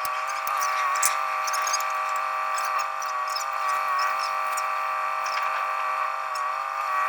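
Handheld electric power tool motor running at a steady high speed with a high whine, dipping slightly in pitch now and then as it meets light load.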